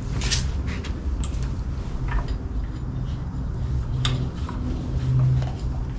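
A few sharp clicks and light metallic knocks from hands working on a British Seagull outboard motor, over a low steady rumble.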